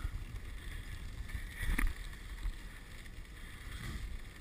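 Dog sled running over a snow trail: the steady low rumble and hiss of the runners, with wind on the microphone and one louder knock about two seconds in.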